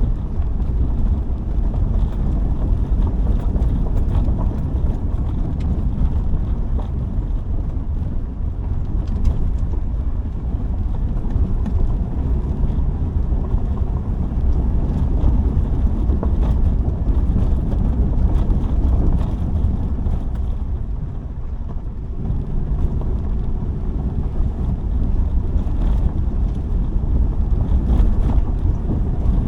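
Steady low rumble of a Subaru on the move: road and engine noise, easing off briefly about two-thirds of the way through.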